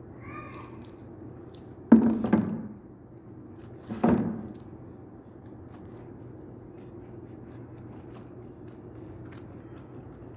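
Two sudden loud knocks about two seconds apart, each trailing off in under a second, over a steady low hum.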